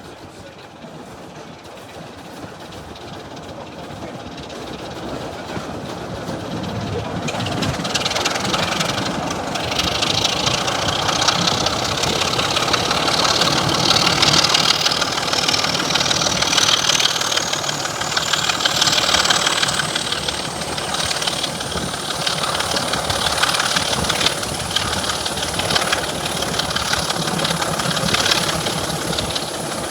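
Class 26 diesel-electric locomotive pulling away: the engine sound builds over the first ten seconds or so, then runs steadily under power. A high whine rises slowly in pitch and falls back a little near the end.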